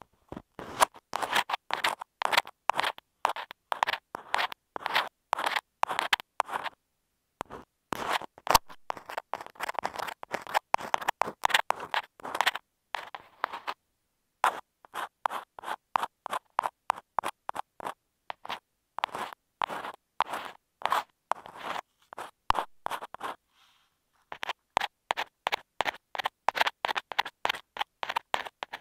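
Ear pick scratching and scraping on an earphone microphone in quick, sharp, repeated strokes, several a second, in runs broken by brief pauses.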